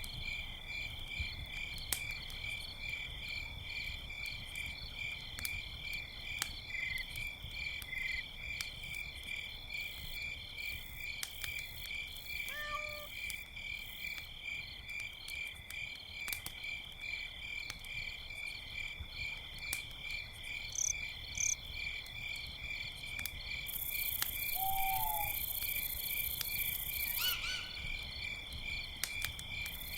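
Crickets chirping in a steady, fast pulsing chorus over scattered crackles and pops of a wood campfire. A few short calls from a night creature break in about halfway through and again near the end.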